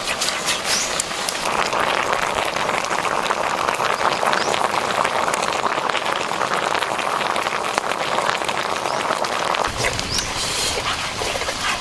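A whole duck frying in oil in a wok over a wood fire, sizzling steadily with fine crackles and spatters. A low rumble comes in near the end.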